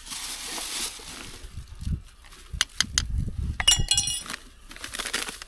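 Gear being handled and knocked about while snow is cleared from it: a brushing hiss first, then a few sharp knocks and, about two thirds of the way in, a quick run of bright clinks from hard objects striking.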